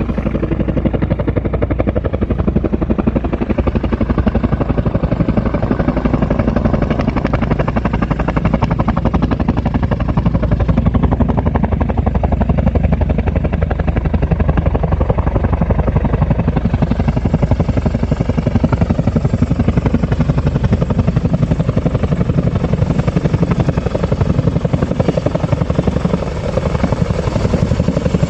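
Helicopter close by, its rotor beating rapidly and steadily, loud throughout.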